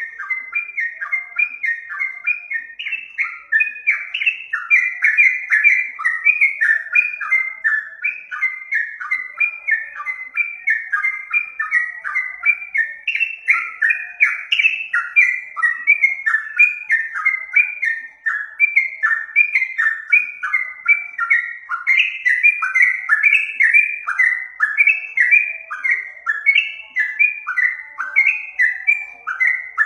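Yellow-vented bulbul (trucukan) calling continuously, a fast run of short falling chirps, about three a second.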